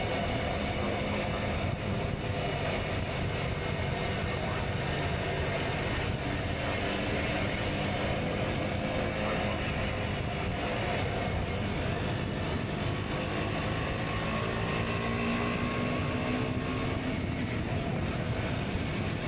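KTM Duke 125 single-cylinder four-stroke with an Akrapovic exhaust running under way at a fairly steady speed, its note shifting a little in pitch in the second half as the throttle and speed change.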